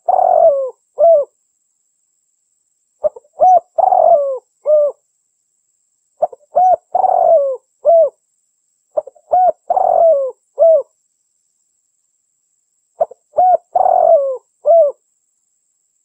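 Female derkuku dove cooing. Each phrase is a few short coos with a longer, falling coo in the middle, repeated about every three seconds, five times.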